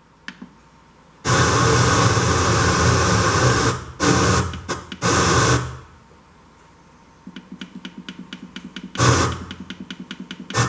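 Broadcast sound effects played through an LG CK-43 mini hi-fi's speakers: loud bursts of hissing noise, then a fast, even ticking of about five clicks a second over a low hum, broken by one more hiss.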